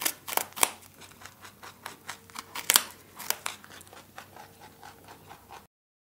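Rabbits eating a carrot and fresh greens: a run of irregular crisp crunches as they bite and chew. The crunching stops shortly before the end.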